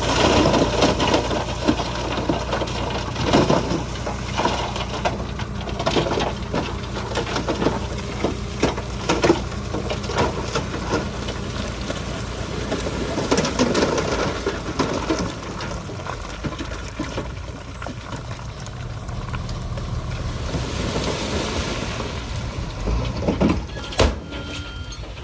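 Shantui bulldozer's diesel engine running steadily under load, with frequent clanks and rattles of metal and rock as it pushes soil, and one sharp knock near the end.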